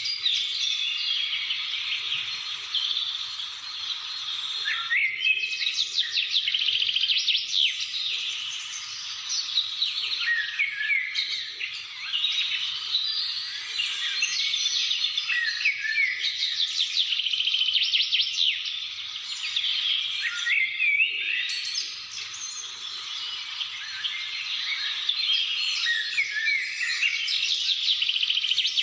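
A chorus of many small birds chirping and twittering: dense, overlapping quick high notes and short trills, thinning briefly a few times before filling in again.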